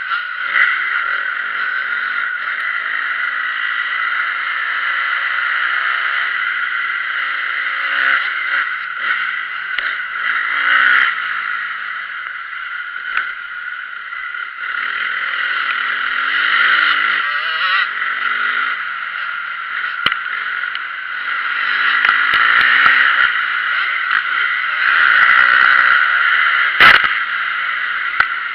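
Motocross dirt bike engine revving up and down repeatedly, its pitch rising and falling as it is ridden. A single sharp knock near the end.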